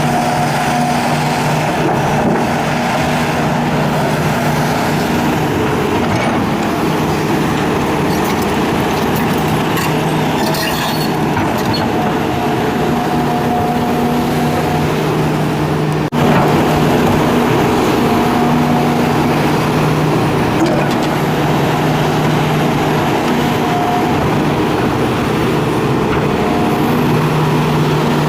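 Hitachi excavator working: the diesel engine runs steadily under load with a hydraulic whine that comes and goes in stretches of a few seconds.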